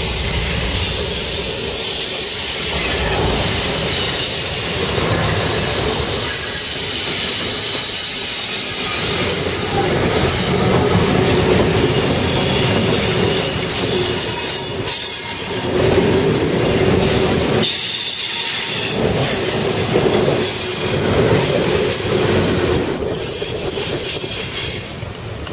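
CSX freight train rolling past, steel wheels squealing against the rails over a steady rumble of cars and wheels.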